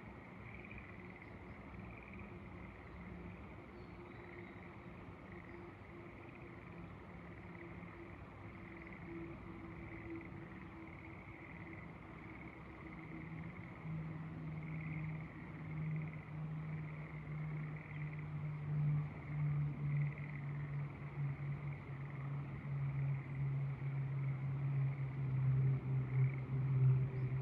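A chorus of frogs in the rice paddies, a steady, softly pulsing calling. From about halfway, the low hum of an engine rises under it and grows steadily louder toward the end.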